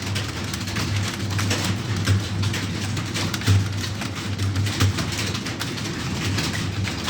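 Many computer keyboards clattering at once, a dense, irregular patter of key clicks from a room of typists working against the clock, over a low electrical hum.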